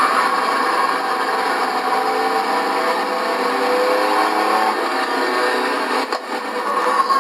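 Several race truck engines running together at speed on the track, their pitches sliding up and down as they pass and change throttle, with a brief dip near the end.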